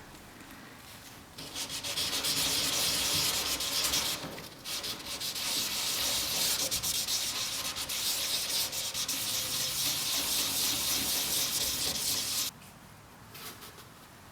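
Sanding: an abrasive rubbed quickly back and forth against a surface, starting about a second and a half in. It breaks off briefly partway through, then stops suddenly about two seconds before the end.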